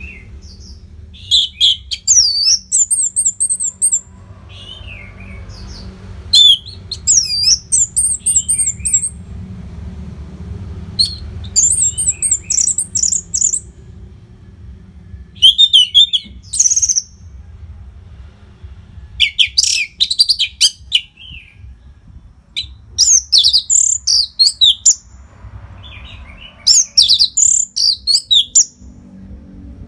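Orange-headed thrush (anis merah) singing: about eight loud, varied song phrases of quick rising and falling whistled notes, each one to three seconds long with short pauses between them.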